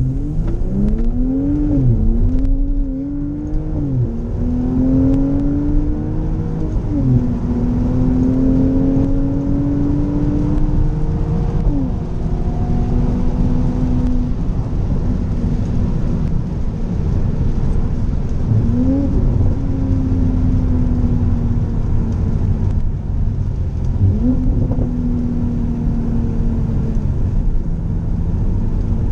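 Mercedes-AMG SLC 43's 3.0 litre twin-turbo V6 under hard acceleration. The engine note climbs and drops back at quick upshifts in the first few seconds, then rises slowly through longer gears with a few brief jumps in pitch, over steady road and wind noise.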